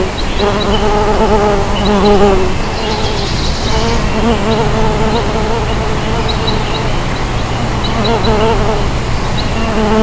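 Mason bees buzzing in flight around their nesting block: a wavering buzz that swells and fades as bees pass close, dropping out briefly about two seconds in before coming back.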